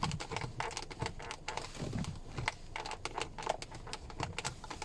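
Plastic interior door handle trim of a Hyundai Creta creaking as it is worked by hand: an irregular run of small clicks and creaks, several a second. It is the squeak that Creta handles are said to develop.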